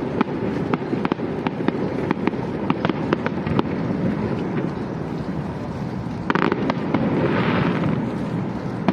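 Fireworks going off close by: many sharp pops and bangs over a continuous low rumble of bursts, turning louder with a hissing, crackling spell about six seconds in.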